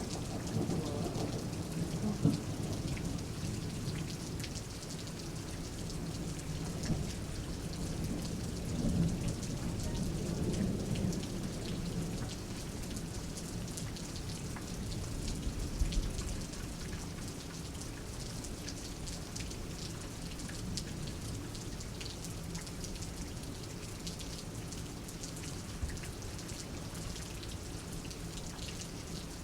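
Thunderstorm: a low roll of thunder fades away over the first several seconds, swells again briefly before the middle, and rumbles once more shortly after, over steady rain falling.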